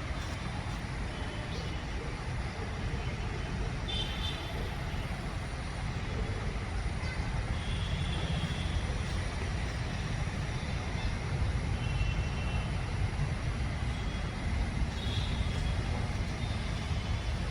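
Steady low rumble of city traffic, with a few brief high bird chirps now and then above it.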